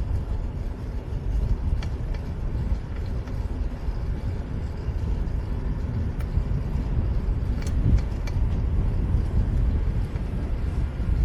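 Steady low rumble of wind and road noise on a bike-mounted camera while riding a fixed-gear bicycle in city traffic, with cars passing and a few light ticks.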